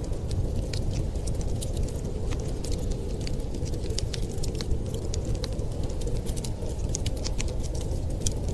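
Wood fire crackling, with many small sharp pops and snaps at irregular intervals over a steady low rumble.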